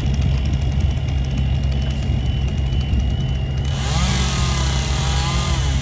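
Engine of the tree-removal crew's machinery running steadily. A little past halfway, a harsher hissing noise and a rising and falling whine join in for about two seconds.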